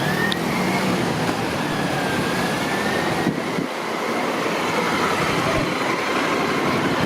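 Steady street traffic: vehicle engines and road noise running without a break, with a faint high whine that wavers slightly in pitch.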